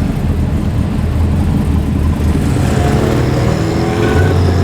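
A performance car's engine running deep and loud as it rolls in, sounding very, very tough, with a short rev whose pitch rises from about two and a half seconds in.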